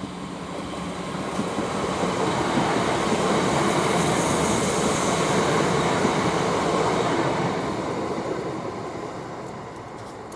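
Northern Class 323 electric multiple unit passing through the station without stopping: the rush of wheels and body noise builds over about three seconds, stays loud for several seconds, then fades as it goes away.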